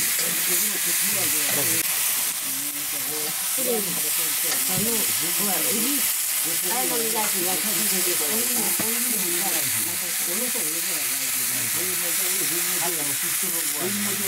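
Chicken pieces sizzling in a wok over an open wood fire, with a steady hiss, while a metal ladle stirs and scrapes through them in the pan.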